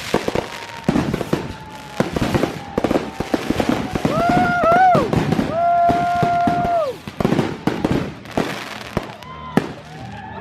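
Fireworks going off in quick succession: many sharp bangs and crackles, one after another.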